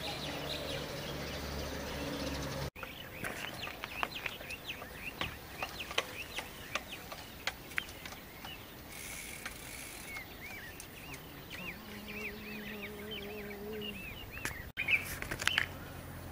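Small birds chirping outdoors, many short quick chirps one after another. A low steady hum joins in for a couple of seconds near the end, and the sound breaks off abruptly twice where the recording is cut.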